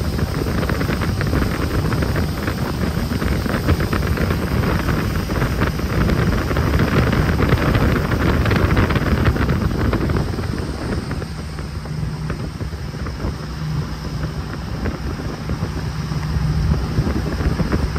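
Jet boat under way: a loud rush of wind and water spray buffeting the microphone over the boat's engine. About eleven seconds in the rush eases and a steady low engine hum comes through.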